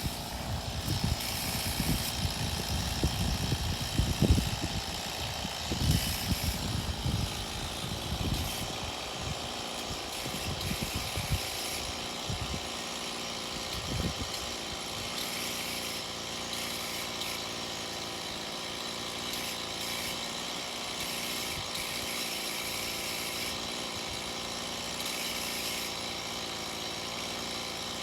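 Small chainsaw idling steadily, with irregular low thumps and rumbles on the microphone during the first half.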